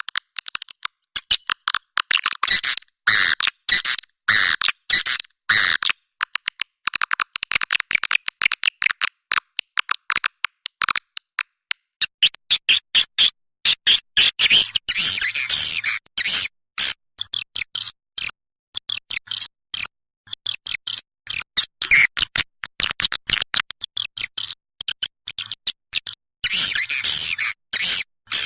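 Swiftlets chirping and twittering in rapid runs of short high calls with brief gaps between, the kind of recorded call played to lure swiftlets to a nesting house.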